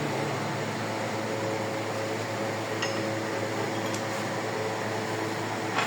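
Steady mechanical fan hum in the workshop, with a few light clinks and a sharper clink at the very end.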